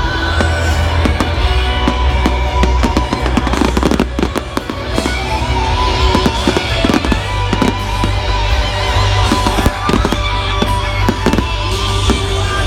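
Fireworks going off in quick succession, many sharp bangs and crackles, over loud music that accompanies the display.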